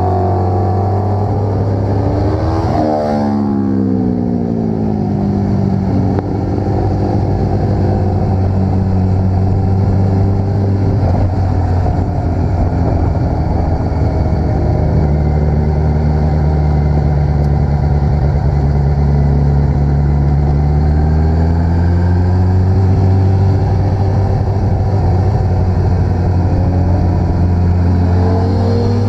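Vehicle engine running under way on the road. Its note drops about three seconds in, holds steady through the middle, then climbs gradually over the last several seconds as the revs rise.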